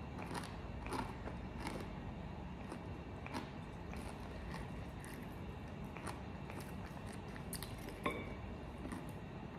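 Mouth chewing crispy, brined fried chicken: irregular crunches, roughly one or two a second.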